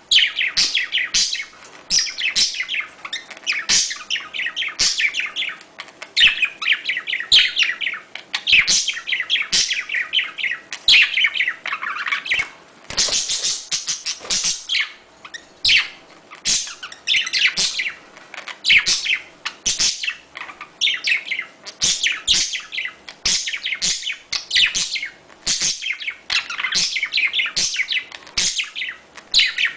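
Budgerigar mating chatter: a dense, nearly unbroken run of fast warbling chirps mixed with sharp clicks, with only brief pauses.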